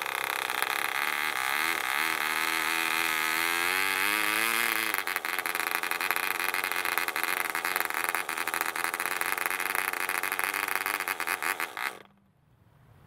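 Barbini B.38 1 cc model diesel engine running at speed with a 7x4 propeller, its pitch wavering unevenly for the first few seconds and then running rougher; the uneven running is put down to the engine being new and not yet broken in. It cuts out suddenly about twelve seconds in.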